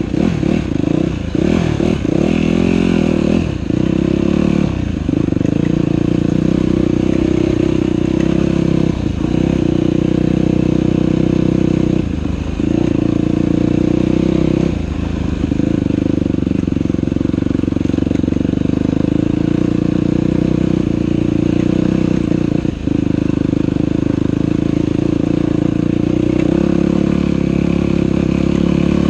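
Dirt bike engine running hard on a trail ride, the revs dropping and climbing back every few seconds as the throttle is rolled off and on.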